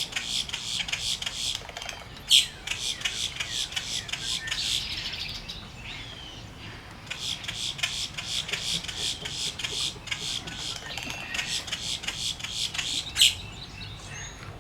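Wood stork nestlings begging in the rookery: a dense, rapid chattering chorus in two long bouts with a short lull in the middle. Two sharp, louder single notes stand out, about two seconds in and near the end.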